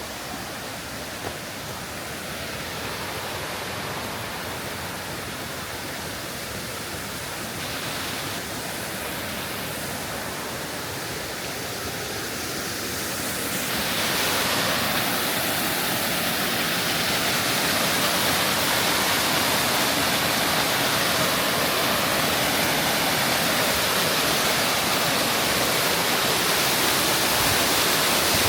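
Rushing water of a mountain-stream waterfall, a steady rush that grows louder about halfway through.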